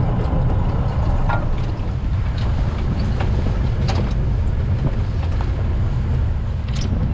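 Steady low rumble of a safari vehicle on the move, with a few short faint calls above it about a second in and again around four seconds in.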